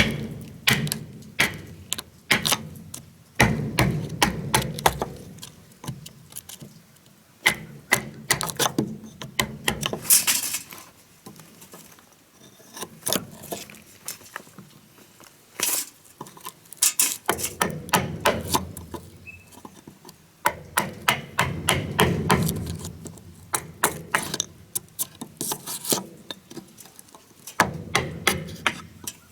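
Sharp knocks from tools striking wood, coming in quick runs of several strikes a second with short pauses between runs.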